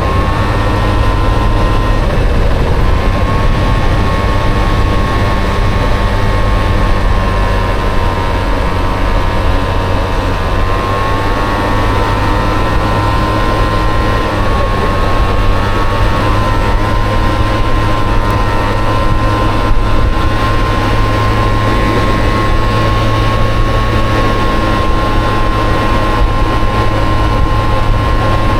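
Honda Motocompo scooter with a swapped-in Honda Dio 50 cc two-stroke engine running steadily under way, its pitch shifting slightly up and down a few times, over a heavy low rumble.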